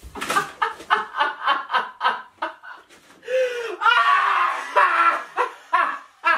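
A man laughing in quick, rhythmic bursts, then breaking into longer drawn-out vocal sounds that slide in pitch.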